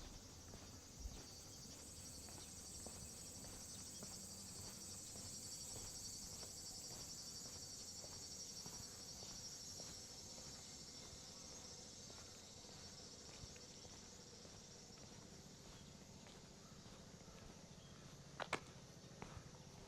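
Insects trilling steadily at dawn in a high, fine chirring that fades somewhat in the second half. Near the end come a sharp click and a second, softer one.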